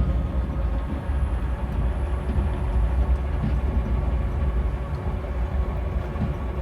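Steady low rumble of a vehicle in motion: a non-running 1953 Chevrolet pickup rolling along while towed on a tether.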